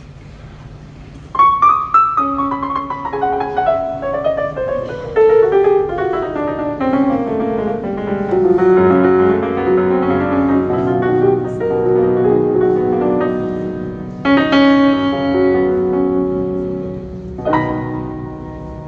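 Piano introduction to a hymn. A chord is struck about a second in, then a long run of notes steps down into the low register, and two more chords are struck in the latter half.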